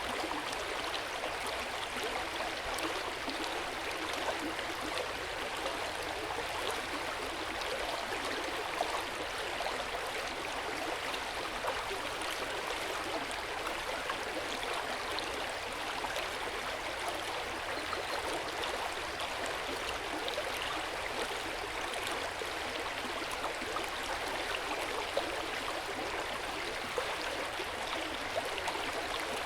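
Hot-spring water flowing steadily into an open-air bath, an even rush of water with small scattered drips and splashes.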